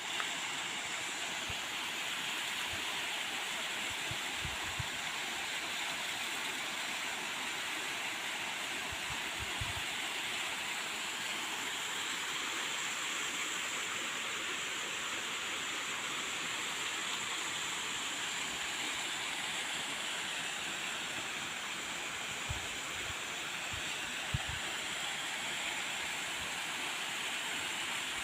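Waterfall pouring steadily: a continuous, even rush of falling water, with a few faint low thumps now and then.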